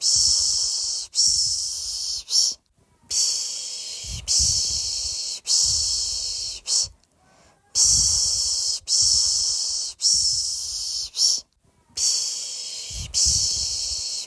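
A person shushing rhythmically, "shh, shh, shh, sh", to soothe a baby to sleep. Each set is three long shushes and a short fourth, then a brief pause, repeating steadily.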